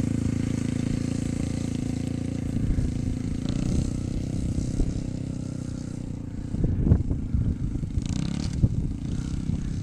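Dirt bike engine running steadily at first, then going uneven from about two and a half seconds in, with irregular knocks and rattles that are loudest about seven seconds in.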